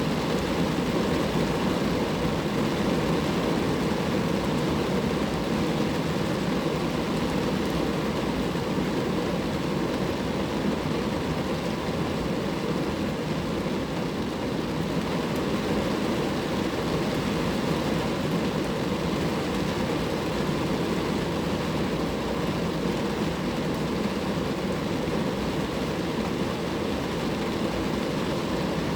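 Steady rain falling on a car, an even, unbroken wash of drops with no let-up.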